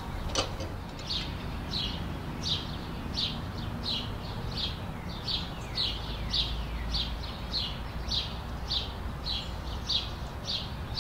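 A songbird chirping over and over, short falling notes repeating about twice a second, over a steady low outdoor background hum.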